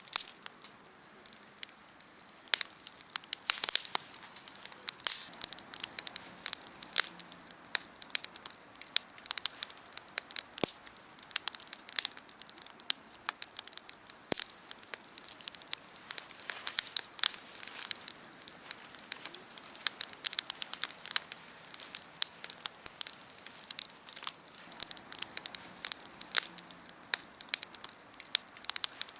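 Wood fire burning, crackling with many sharp, irregular pops over a faint steady hiss.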